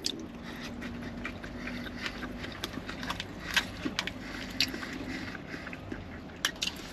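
Close-miked chewing of a shrimp and salmon poke bowl: scattered wet mouth clicks and smacks at an uneven pace, with a faint low hum under the first couple of seconds.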